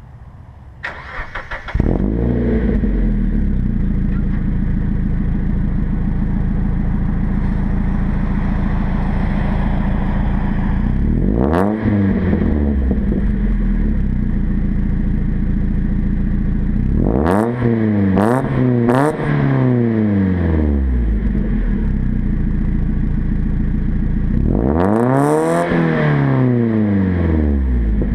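2000 Mazda Miata four-cylinder engine breathing through a Magnaflow catalytic converter and 2.5-inch Magnaflow exhaust. It cranks and starts about two seconds in, then idles with a deep steady note. It is blipped once, then three times in quick succession, then given one longer rev near the end.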